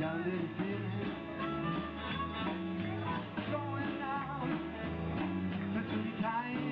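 Rock-and-roll band playing live, with electric guitar lines over a steady bass and beat.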